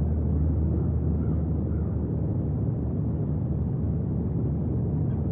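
Steady, deep wind noise on the microphone, with no distinct events.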